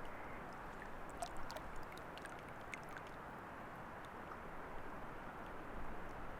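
A faint, steady rush of moving water, with a scatter of small drips or clicks from about one to three seconds in.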